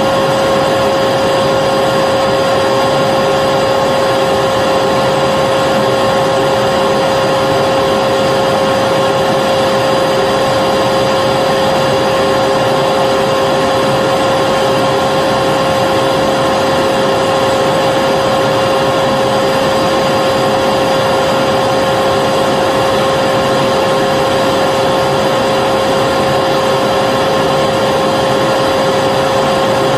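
Vacuum cleaner running steadily: the even rush of air through the machine with a constant motor whine, never changing in pitch or level.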